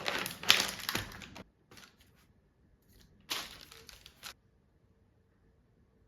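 Crinkling, rustling handling noise in two stretches: one lasting about a second and a half at the start, another of about a second beginning a little over three seconds in, then near quiet.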